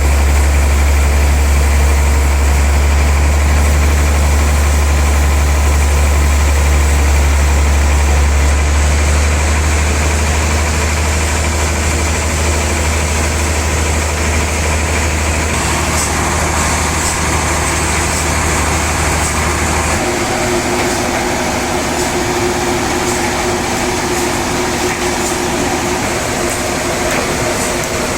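Sawmill machinery running steadily with a strong, deep hum. About twenty seconds in the deep hum drops away and a lighter, higher machine hum carries on.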